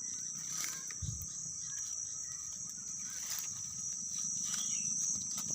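Crickets chirping in a steady high-pitched drone, with a few faint rustles and knocks.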